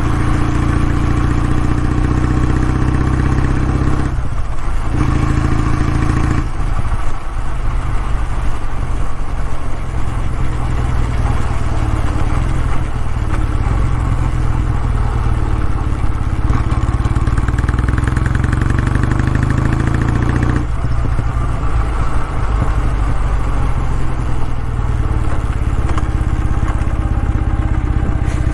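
Kawasaki W650's air-cooled parallel-twin engine running, its exhaust note loud and steady with brief dips about four, six and a half and twenty-one seconds in.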